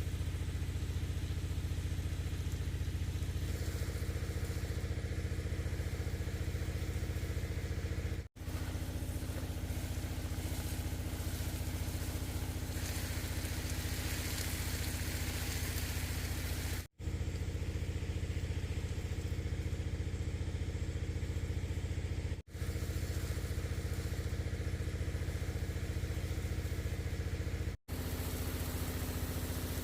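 A small engine running steadily at an even speed, cutting out to silence for an instant four times.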